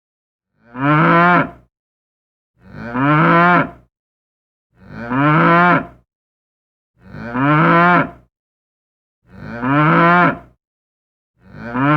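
A cow mooing: one short moo repeated six times, about every two seconds, each call identical, so the same recording is being looped.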